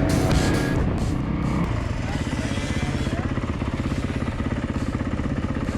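Background music fades out about two seconds in, giving way to a dirt bike engine running steadily with a fast, even pulse.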